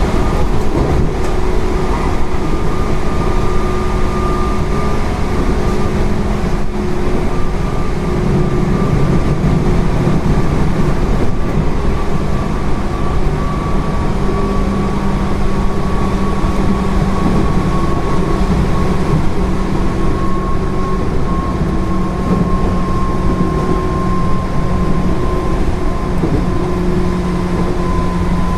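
Running noise inside a JR 205 series 0 electric train with field-added excitation control: a steady rumble of wheels on rail, with a hum from the motors and gears whose pitch sinks slowly.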